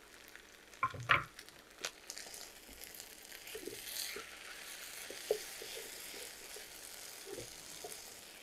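Mashed potato, onion and tomato mixture frying in oil in a non-stick pan with a soft sizzle. A wooden spatula stirs and scrapes through it, knocking a few times about a second in.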